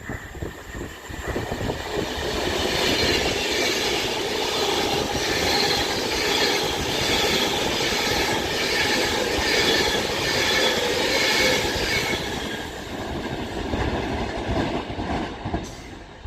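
Avanti West Coast Class 390 Pendolino electric train passing through the station at speed without stopping. The wheel-and-rail noise builds about a second in, holds with a regular beat about once a second as the coaches go by, and fades near the end.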